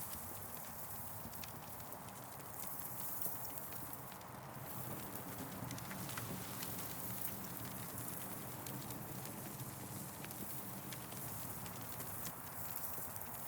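Campfire crackling: a steady hiss of burning wood with frequent small, irregular pops and snaps.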